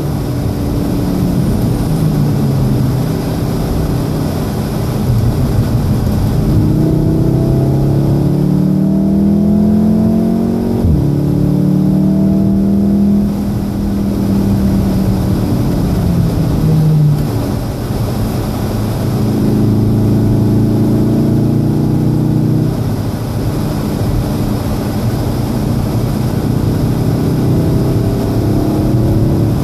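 2014 VW Golf VII R's turbocharged 2.0-litre four-cylinder engine heard from inside the cabin, pulling hard and rising in pitch through the gears, with a step down at an upshift about eleven seconds in and a falling-away as it slows for a corner near seventeen seconds, then climbing again. Steady tyre noise from the wet track runs underneath.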